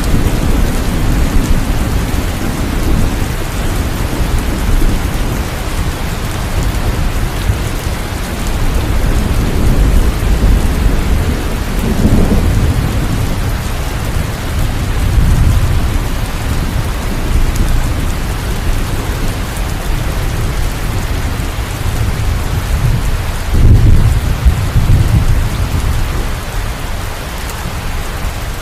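Steady heavy rain falling, with low rolling thunder rumbling under it that swells several times, loudest about three-quarters of the way through.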